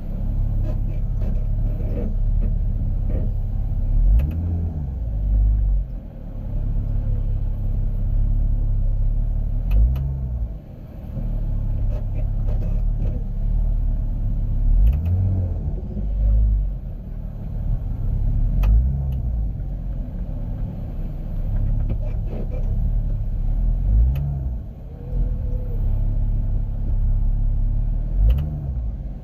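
2019 Jeep Wrangler JL's V6 running with a steady low rumble that swells about every five seconds, with short sharp clicks scattered through it. The clicks come from the rear of the Jeep when the wheels are turned or it moves forward or back; their cause is not yet found.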